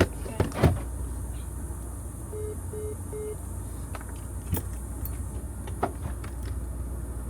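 A car's steady low rumble, with a few knocks in the first second and three short, evenly spaced electronic beeps about two and a half seconds in.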